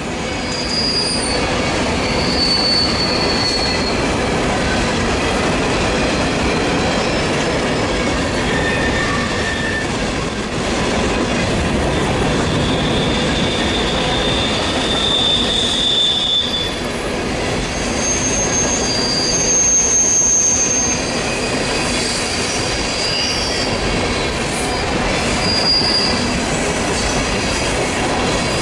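Freight train rolling past, a steady rumble of steel wheels on rail with short high-pitched wheel squeals coming and going.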